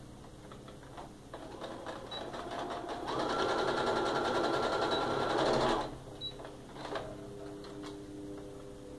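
Sewing machine stitching a short seam. It starts slowly about a second in, runs fast and steady from about three seconds, and stops just before six seconds.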